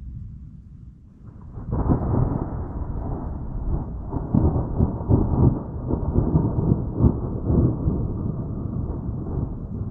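Thunder: a faint low rumble that swells suddenly, about a second and a half in, into a loud rolling rumble with repeated sharp cracks.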